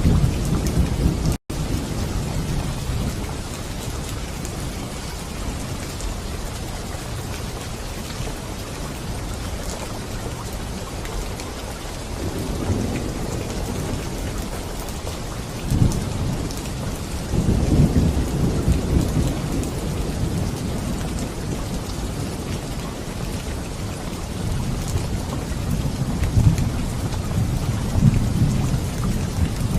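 Steady rain falling, with low thunder rumbling up and dying away several times, the strongest rolls in the second half. The sound cuts out for an instant about a second and a half in.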